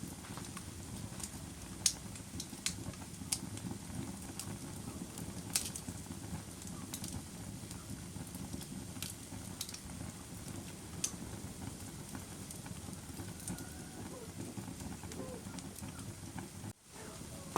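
Wood fire crackling: a steady low rustle of flames with sharp pops scattered irregularly through it, one of the loudest about two seconds in. The sound cuts out for a moment near the end, then resumes.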